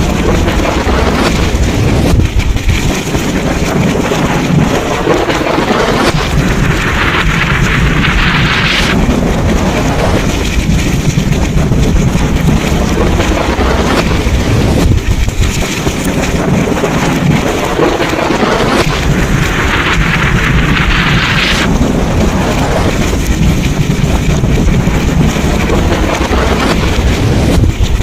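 Thunderstorm: heavy rain with a deep, continuous rumble of thunder underneath. The rain's hiss swells twice, about a quarter of the way in and again about three quarters of the way through.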